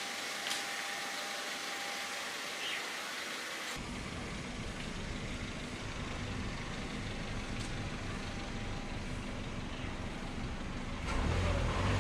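A Kia sedan's engine running at low speed as the car creeps forward into a tight garage. A steady hiss with the engine faint gives way abruptly, about four seconds in, to the low engine sound heard close up, which grows louder near the end as the front of the car comes right up.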